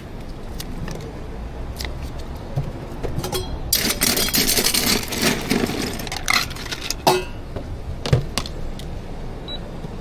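Barista working at an espresso bar over a steady low hum: a burst of hissing lasting about two seconds, then a few sharp clicks and knocks of utensils.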